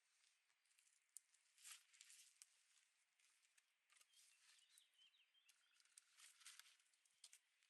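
Near silence: faint outdoor ambience with scattered small rustles and clicks.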